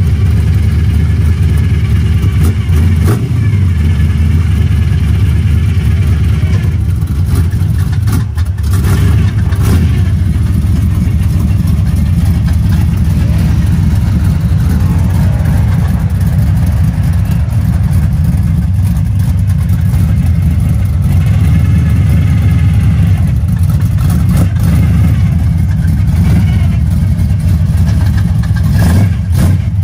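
Early-1970s Chevrolet Nova's engine running steadily with a loud, low exhaust note.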